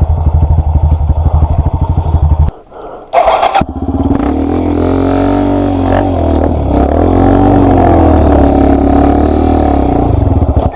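Yamaha Lander 250 single-cylinder four-stroke trail bike engine running with a steady low beat. About two and a half seconds in it drops away, there is a brief rushing noise, and then the engine picks up again with the revs rising and falling as it is ridden.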